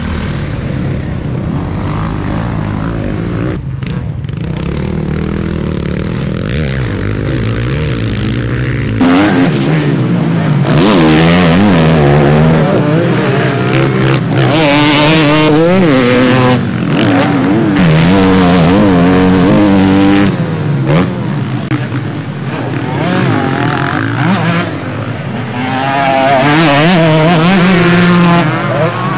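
Motocross bike engines on track: a steadier engine sound at first, then from about nine seconds in louder engines revving hard, their pitch repeatedly climbing and dropping as the riders open and shut the throttle.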